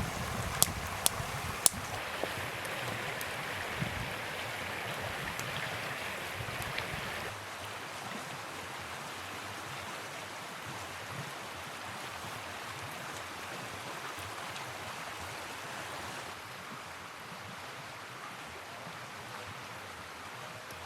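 Steady rush of flowing river water, with three sharp clicks in the first two seconds; the rush drops a little about seven seconds in.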